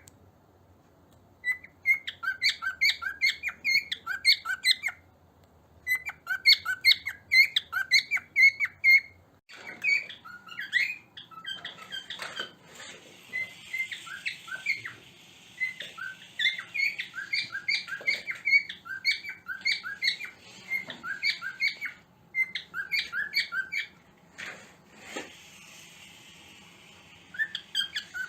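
Cockatiels chirping in quick, rapid-fire runs of short calls, with brief pauses between runs. From about ten seconds in, the chirping carries on over more background hiss.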